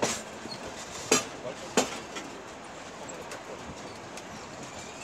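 Steady running noise of a passenger train heard from on board, with a few sharp knocks in the first two seconds.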